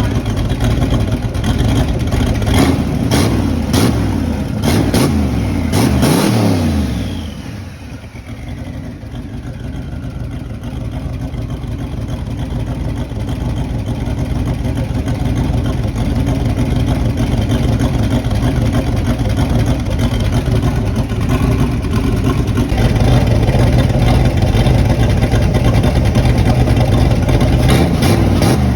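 Turbocharged small-block Chevy V8 revving with sharp pops, then the revs dropping about seven seconds in with a high whine sliding down in pitch. It then settles into a steady idle, which grows louder later on.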